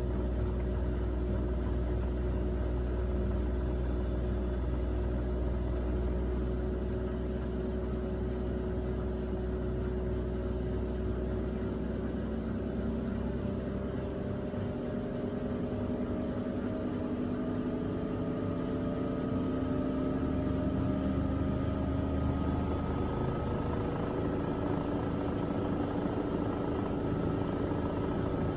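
Miele Navitronic W3985 washing machine with its drum motor whining, the pitch slowly rising as the drum spins up. A low rumble fades out about halfway through.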